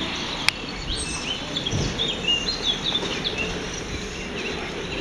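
Small birds chirping: a quick run of short, high chirps over steady outdoor background noise, with one sharp click about half a second in.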